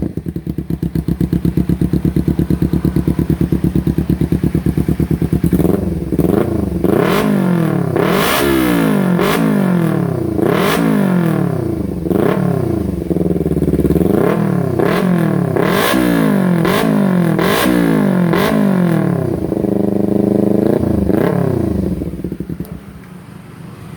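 Kawasaki Ninja 250 with an aftermarket exhaust: idling steadily, then revved in a long series of quick throttle blips, about one a second, with sharp crackles at several of the peaks, then held briefly higher and let settle back to a quieter idle near the end. The exhaust note is a harsh, high-pitched one, the loud 'treble' tone the exhaust is built for.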